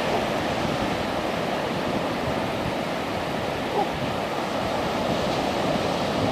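Sea surf breaking on the shore, a steady, even rush of noise.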